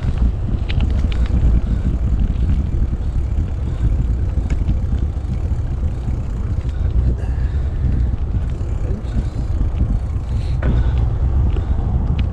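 Wind buffeting the microphone of a moving bike ride: a steady low rumble, with tyre noise on the path and a few light clicks and rattles from the mountain bike.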